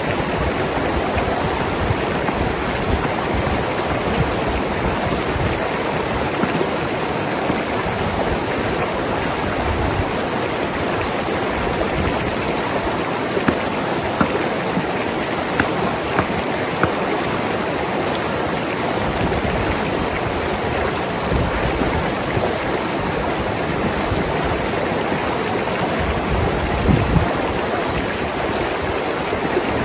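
Mountain river flowing and gurgling over rocks, a steady rush of water with a few brief louder splashes.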